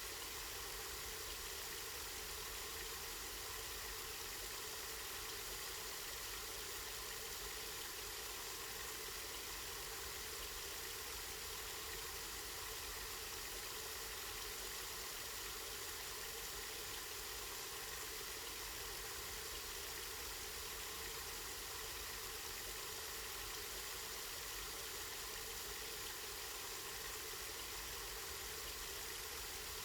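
Water running steadily from a spring, an even hiss with no change, over a low rumble.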